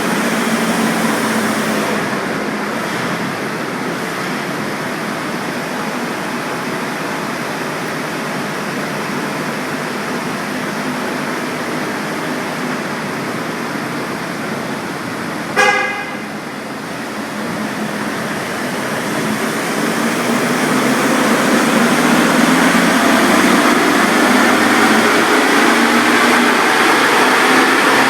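A remapped Audi A3 2.0 TDI common-rail four-cylinder diesel running hard on a chassis dynamometer, along with the rolling noise of the rig. About halfway through there is a brief, sharp tonal blip, then the revs climb steadily and grow louder under full load toward the end, as on a power run.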